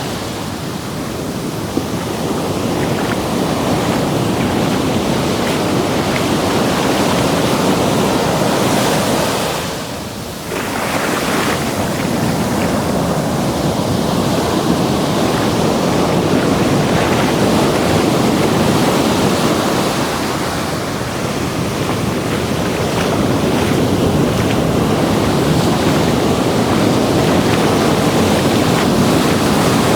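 Ocean surf: waves breaking and washing up the beach in a steady, full rush that eases briefly about ten seconds in, then builds again.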